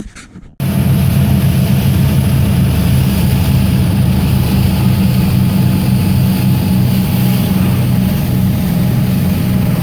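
An engine running loud and steady at a constant speed, with a low, even drone; it cuts in abruptly about half a second in.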